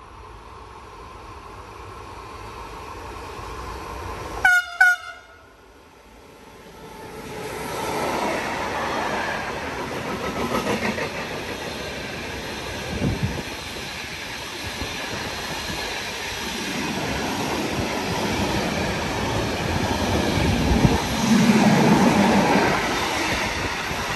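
Train horn giving two short blasts, then a train passing through the station at speed, the noise of wheels on rails building and staying loud to the end.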